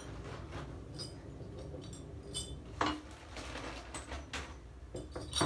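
Metal plumber's wrench sockets clinking and clicking against each other and other hard parts as they are picked up and handled: a handful of separate clinks, some with a short metallic ring.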